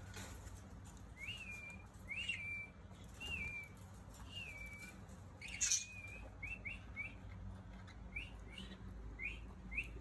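A small pet bird calling repeatedly: clear chirps that rise and then hold briefly, about one a second, turning into shorter, quicker chirps about halfway through. A few faint clicks are mixed in.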